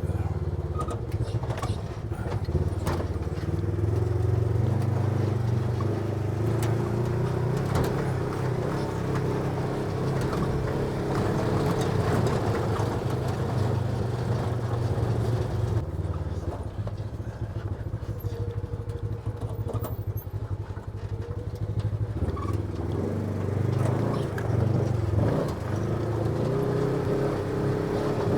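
A small off-road vehicle's engine running as it drives over rough ground, its pitch rising and falling a little with the throttle, with scattered knocks and rattles.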